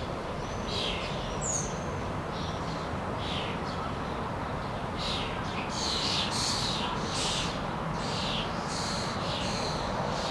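Thrushes giving short, sharp calls over and over, thicker in the second half, with one higher whistled note about a second and a half in. A steady low hum of city noise lies beneath.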